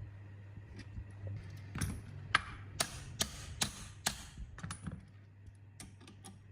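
A run of sharp metallic clicks and taps from metal parts or tools being handled, with five strong ones evenly spaced in the middle and a few fainter ones near the end, over a steady low hum.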